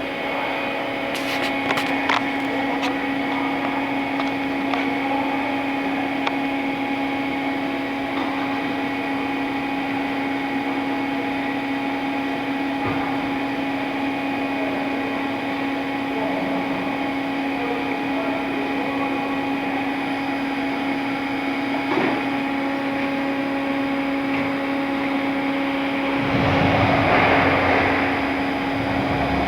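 Fadal CNC vertical machining center running with a steady motor hum, a few sharp clicks, and a louder rushing noise near the end.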